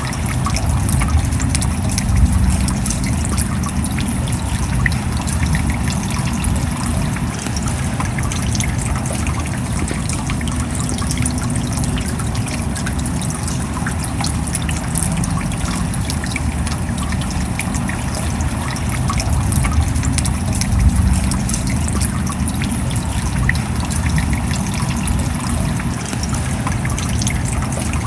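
Steady rain: a dense patter of countless small drops over a continuous low rush of running water.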